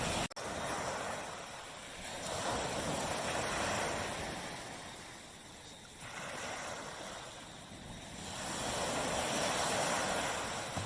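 Sea waves breaking and washing up a tropical beach, the surf swelling and easing three times. There is a momentary cut-out in the sound just after the start.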